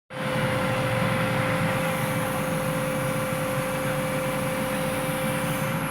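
Diesel earthmoving machinery running steadily, its engine noise even throughout, with a steady whine held at one pitch on top.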